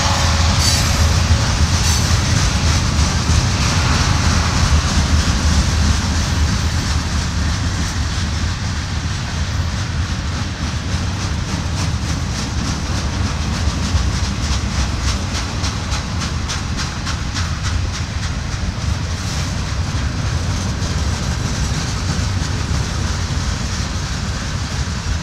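Freight train's boxcars rolling past close by: a steady rumble of steel wheels on rail with a regular clickety-clack as the wheels cross rail joints, easing off slightly toward the end.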